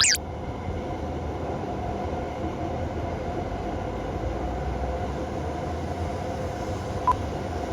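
E7/W7-series Hokuriku Shinkansen Kagayaki train running by, a steady rumble with a faint hum. A short sharp falling tone sounds right at the start, and a short beep near the end.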